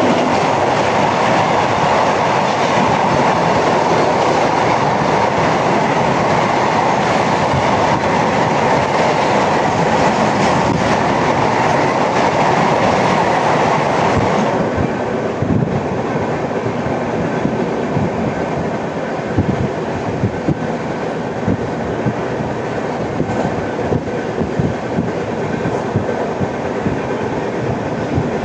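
Passenger express train running at speed, heard from on board: a loud steady rush of wheels and track for the first half, which drops about halfway through, leaving separate knocks and clacks from the wheels over the rails. The uploader presents these knocks as flat-wheel sound.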